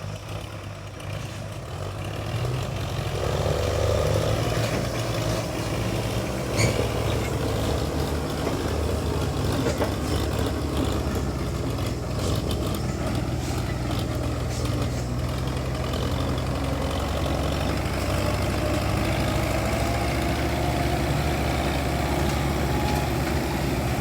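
Diesel tractor engine running steadily under load, growing louder over the first few seconds and then holding even. A single sharp knock comes about six and a half seconds in.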